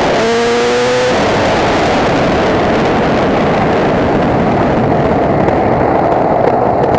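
KTM EXC two-stroke dirt bike engine with a freshly rebuilt top end, revving up under load during its run-in ride. Its note rises for about the first second, then turns into a loud, rough rush with no clear pitch.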